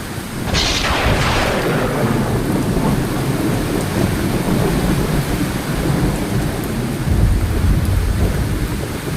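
Heavy rain falling steadily, with a sharp thunderclap about half a second in that fades into a long low rumble. The rumble swells again near the end.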